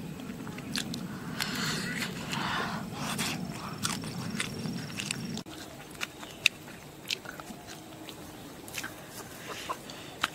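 A person chewing and biting into roasted cow hoof, with wet mouth sounds and scattered sharp crunches. About halfway through the steady chewing drops away, leaving only occasional snaps and clicks.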